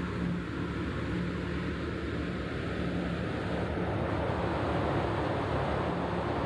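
Steady drone of a large car ferry under way: a low pulsing engine hum under a broad rush of wind and water that grows slightly louder, with a faint whine that fades out partway through.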